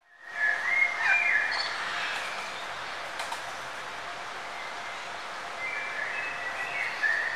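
Birds chirping: a run of short, quickly gliding chirps in the first second and a half and another run near the end, over a steady hiss.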